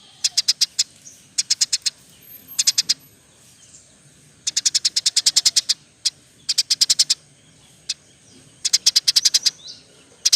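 A bird chirping: sharp, high notes in quick runs of four to a dozen at about eight a second, with short pauses between the runs.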